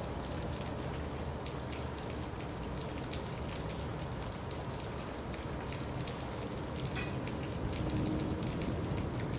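Steady rain falling, an even hiss dotted with many small drop ticks, and one sharper tick about seven seconds in.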